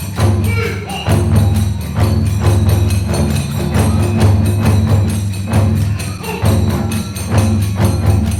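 Kagura hayashi ensemble playing a fast, driving rhythm: large and small taiko drums beaten with hand cymbals (tebyōshi) clashing on a quick, even beat.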